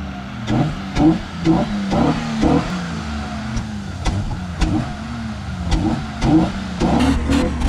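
Honda 3.0 V6 car engine revving up and down again and again, its pitch rising and falling every half second or so under uneven throttle. A quick run of clicks comes in near the end.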